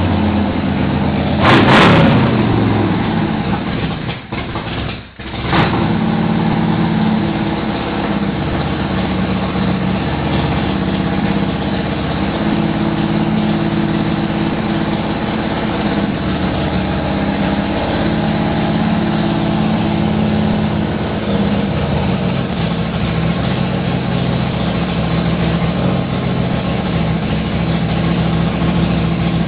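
Harley V-twin engine of a newly built chopper running on its first start-up. A loud rev comes about one and a half seconds in, the engine dips sharply around four to five seconds in, and there is a sharp crack. It then settles into a steady idle.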